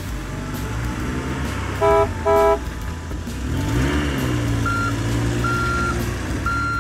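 Truck sound effects: a steady engine rumble, with two short horn toots about two seconds in. Then the engine revs up, and three short high beeps sound near the end.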